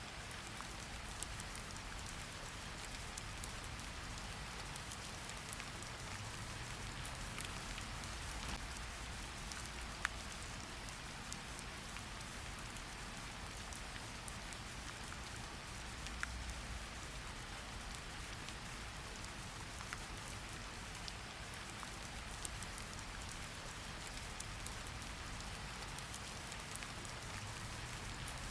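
Steady rain falling, an even hiss with scattered sharp drop ticks and a faint low rumble underneath.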